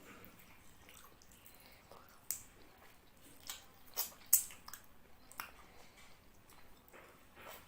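Close-up mouth sounds of a person eating fish curry with rice by hand: wet chewing and smacking, with irregular sharp lip and mouth clicks, the loudest a little past the middle.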